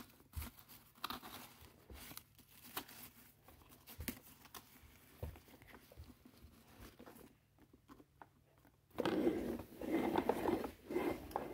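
Scattered small clicks and knocks of plastic toy garbage trucks and bins being handled, then a louder rustling and crinkling in the last few seconds.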